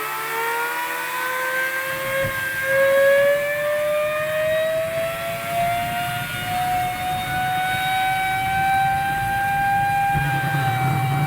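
Homemade jet turbine engine spooling up: a whine with several overtones rising steadily in pitch, then levelling off into a steady high whine. A rumbling rush joins the whine about two seconds in.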